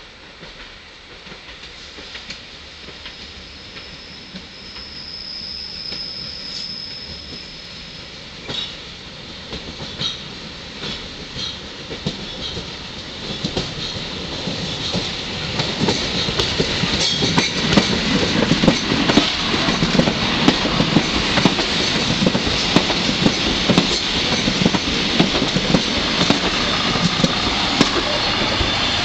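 MÁV Bzmot diesel railcar train approaching and running past at close range, growing steadily louder throughout. Its wheels click over the rail joints, and the clicks come thick and fast from about halfway in.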